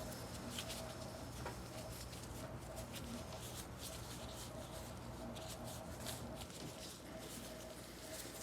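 Faint, irregular scratchy scrubbing strokes as a Glock 19 Gen 5 pistol slide is cleaned, over a steady low hum.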